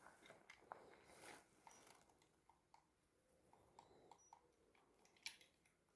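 Near silence with a few faint small clicks and soft rustles from handling, and one sharper click a little after five seconds in.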